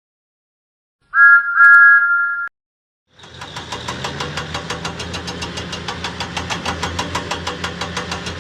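Steam locomotive whistle sounded twice, a short toot then a longer one, followed by the engine starting to chuff in an even, rapid rhythm of about five puffs a second.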